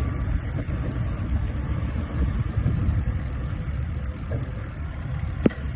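Gusty low rumble of wind buffeting the microphone on a moving bicycle, with a single sharp click about five and a half seconds in.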